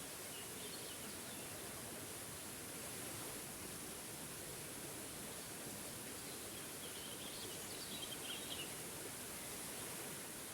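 Small forest waterfall rushing steadily. Birds chirp briefly near the start and in a longer run of chirps about seven to eight and a half seconds in.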